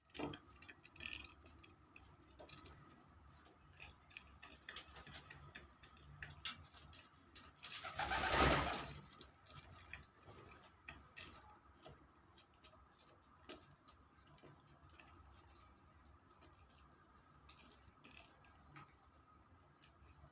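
Homing pigeons cooing softly in low, intermittent coos, with scattered small clicks and one louder rush of noise about eight seconds in.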